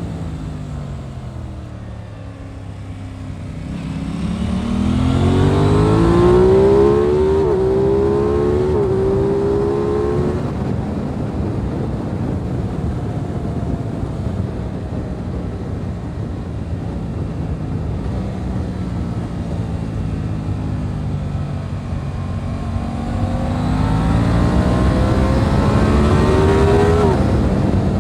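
Aprilia RS 660's parallel-twin engine under a riding load, with wind rush. It slows down, then pulls hard up through the gears with quick upshifts, cruises steadily, and accelerates hard again near the end.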